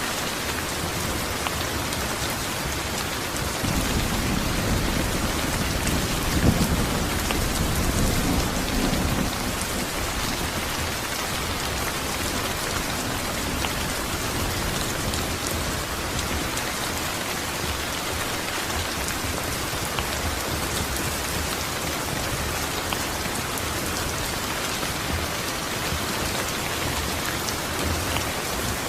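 Steady rain falling, with a low rumble of thunder a few seconds in that swells for about six seconds and then fades back into the rain.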